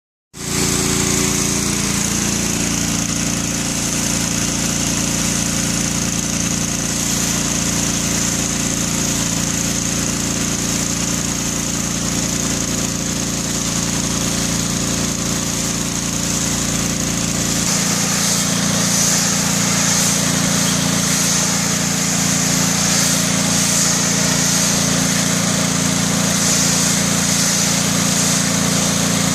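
Honda petrol engine of a pressure washer running steadily under load, with the hiss of the high-pressure spray over it. A little over halfway through, the engine note shifts and the spray hiss grows louder.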